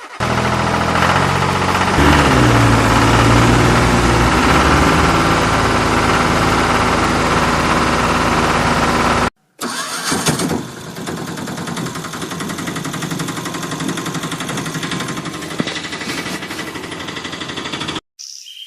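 Motor vehicle engines running and revving, in two stretches split by a sudden cut about nine seconds in; the second stretch is quieter and steadier.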